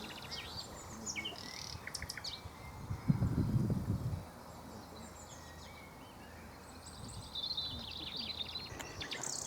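Common nightingale singing: phrases of varied high whistles and rapid clicking notes, a quieter pause mid-way, then another phrase near the end. A low rumble about three seconds in.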